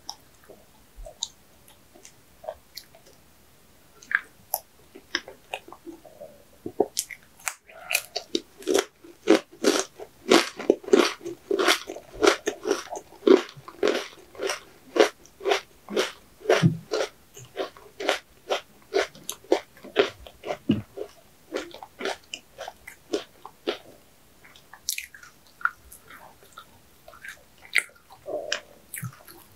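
Close-miked chewing of a mouthful of ice cream cake, ASMR-style. A few scattered mouth clicks at first, then steady rhythmic chewing of about three chews a second through the middle, which thins out near the end.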